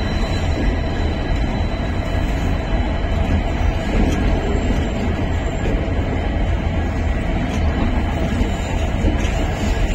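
Indian Railways passenger train of ICF coaches running steadily, a constant heavy rumble of wheels on the track.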